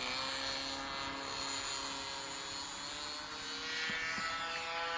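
Single-cylinder glow engine of an RC model airplane, an OS 60 FP, running steadily in flight. Its pitch drops slightly about three and a half seconds in as the plane passes.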